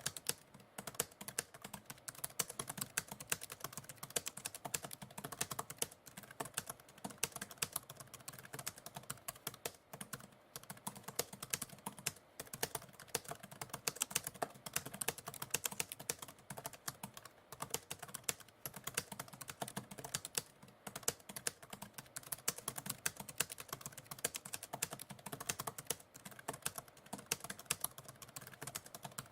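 Computer keyboard typing: a rapid, continuous run of key clicks, with a few brief pauses between bursts.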